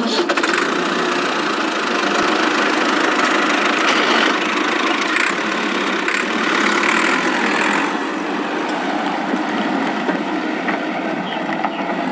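Small electric motor of a homemade toy tractor running steadily, a continuous whirring hum.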